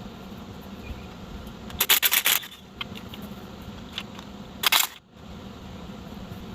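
Two short bursts of rapid metallic clicking and clinking from hand tools or loose metal parts, the first about two seconds in and a shorter one near five seconds, over a steady low hum.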